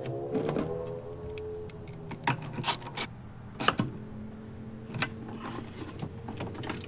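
Sharp plastic clicks and taps from handling wiring and a fuse box cover, several of them spaced through the middle of the stretch, over a steady low hum.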